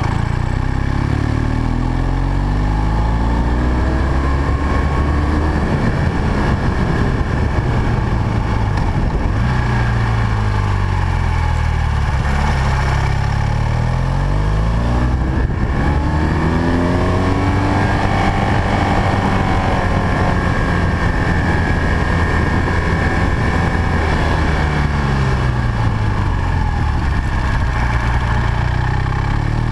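BMW R1200 GS boxer twin engine heard from a camera mounted on the bike, running under load on a climb. Its engine speed falls and rises again several times, over a steady rush of wind.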